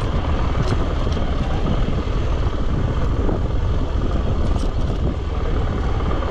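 Motorcycle ridden along a dirt track: a steady, heavy rumble of wind on the microphone and engine, with a few faint ticks of gravel.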